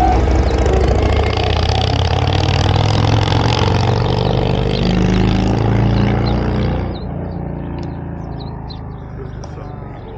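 A motor vehicle's engine running with a slowly shifting pitch, fading out about seven seconds in, after which faint bird chirps are left.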